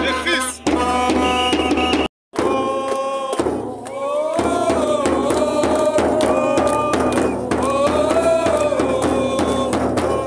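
Fans chanting in unison over a steady beat of drums, with a brief cut to silence about two seconds in.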